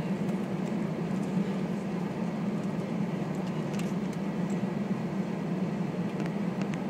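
Cabin noise inside an Airbus A320 taxiing: a steady low engine hum, with a few light rattling clicks from the phone or cabin fittings.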